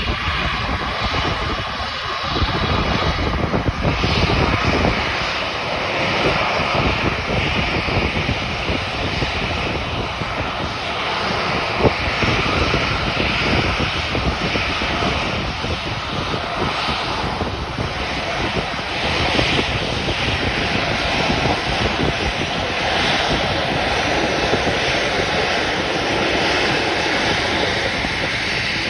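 Boeing 737-800's twin CFM56-7B turbofan engines running: a steady, loud jet noise with a low rumble and a hiss that swells and eases slightly.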